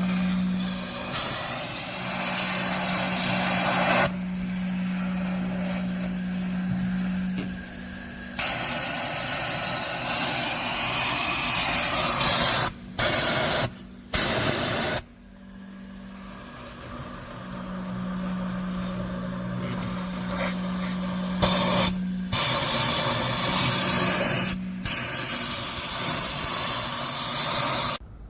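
Vacuum cleaner hose and spray hiss while carbon is cleaned out of an engine intake port: loud rushing hiss with a steady low hum, starting and stopping abruptly many times and cutting off near the end.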